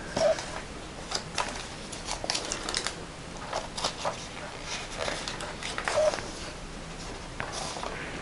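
Paper pages and pockets of a handmade junk journal being handled and turned: scattered soft rustles and light taps.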